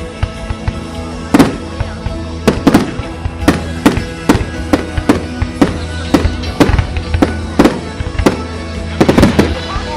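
Fireworks going off in a run of sharp bangs, about two a second, bunching into a quick cluster near the end, with music playing underneath.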